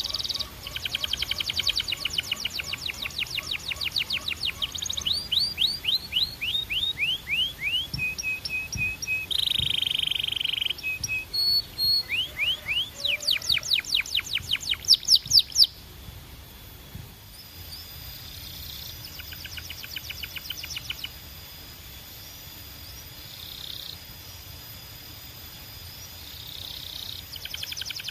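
Canary singing: fast trills of rapidly repeated notes, runs of downward-sweeping whistled notes and short held tones. The song is loud for about the first sixteen seconds, then goes softer and sparser, and picks up again near the end.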